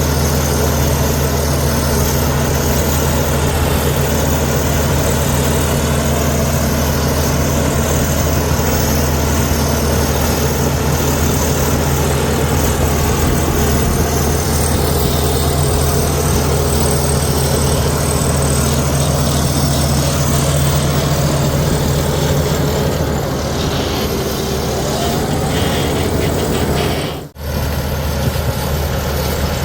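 Heavy diesel engine of earthmoving machinery running steadily, with a deep, even drone that briefly drops out near the end.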